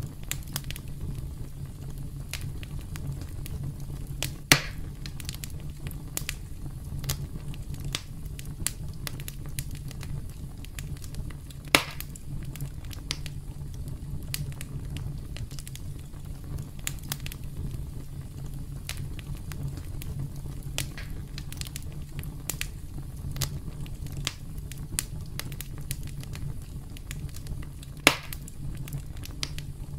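Campfire crackling: a steady low rumble of burning with frequent small crackles and three louder sharp pops spread through it.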